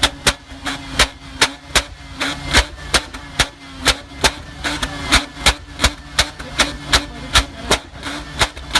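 A sharp knock repeating evenly about three times a second over a faint, steady engine hum.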